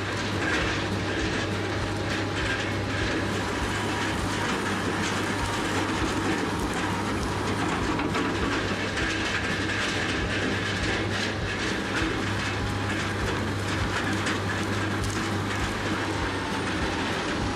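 Doppstadt DW 3060 slow-speed wood shredder running steadily under load: a constant low engine drone with many small knocks and cracks as wood is broken up.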